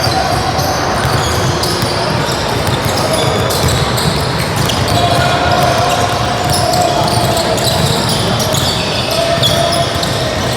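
A basketball bouncing on a gym floor during a youth game, among the voices of players and spectators in a large hall.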